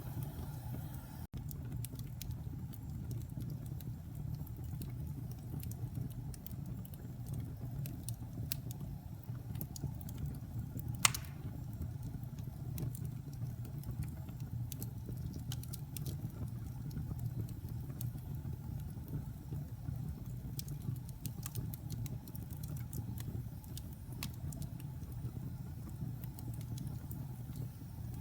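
Fire in a fireplace crackling over a steady low rumble, with scattered small snaps and one loud pop about eleven seconds in.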